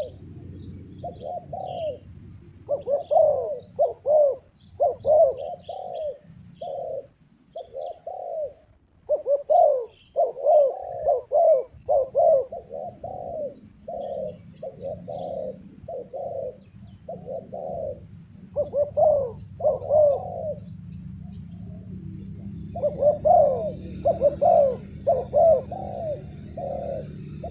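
Spotted dove cooing: a long series of repeated low coos in phrases, with a short break about three quarters through.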